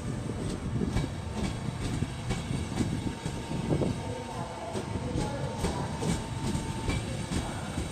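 Passenger train, drawn by E402B electric locomotives, rolling past as it departs: a steady rumble with irregular wheel clicks over rail joints and points.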